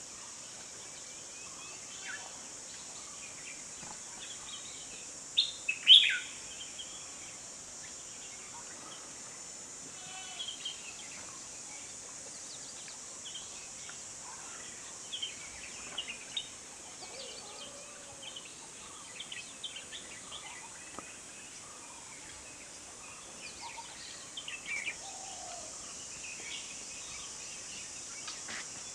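Wild birds chirping and calling on and off, with the loudest burst of calls about six seconds in, over a steady high hiss.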